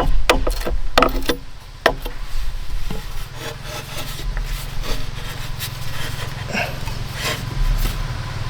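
A few sharp wooden knocks, then repeated scraping strokes of a saw working through wood.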